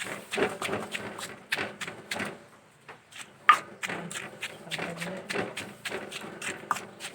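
Kitchen utensils knocking and tapping while food is worked, a run of short, sharp knocks about two a second at an uneven pace.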